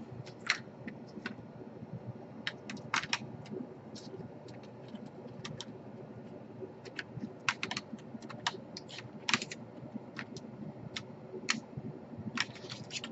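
Irregular light clicks and taps of plastic laptop parts being handled and pressed into place during reassembly, some coming in quick little clusters.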